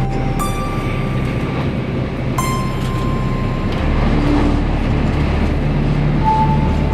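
Shinkansen cabin noise at speed: a steady rumble of the running train that grows a little louder about four seconds in. Over it come a few clear, held high tones, each starting sharply and lasting about a second.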